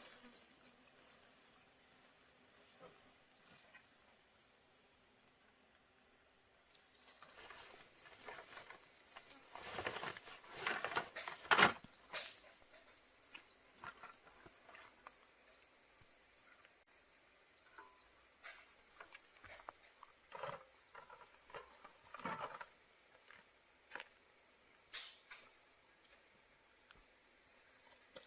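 Steady high-pitched insect chirring throughout, with scattered knocks and rustling handling sounds, the loudest knock about twelve seconds in.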